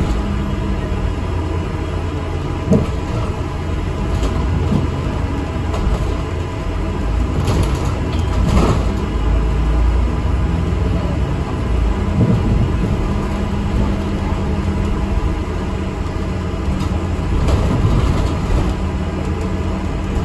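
ADL Enviro400 MMC double-decker bus running, heard inside the saloon: a steady low engine and road rumble, with a sharp knock about three seconds in and a few lighter rattles.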